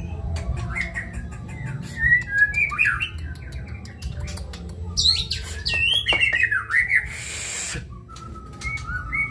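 White-rumped shama singing a varied song of gliding whistled phrases broken by quick clicks, with a short hissing burst about seven seconds in.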